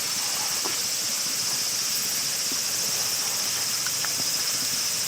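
Steady high-pitched chorus of insects, with a few faint clicks and ticks.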